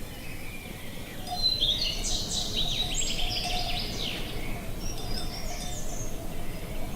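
Small birds singing: a burst of quick chirps and rapid trills starts about a second and a half in, with fainter calls near the end. Under it runs a steady low rush of wind.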